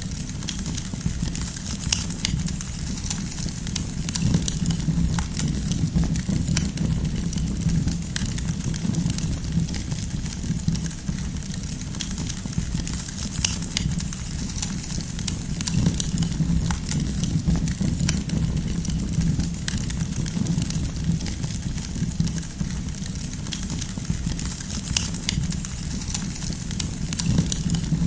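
Wood campfire crackling: scattered sharp pops and snaps of burning firewood over a steady low rumble.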